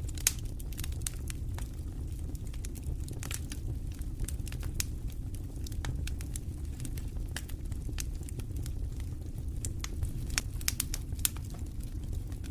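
Wood campfire crackling, with frequent sharp pops and snaps scattered irregularly throughout over a steady low rumble of wind; one of the loudest pops comes just after the start and a cluster of louder ones near the end.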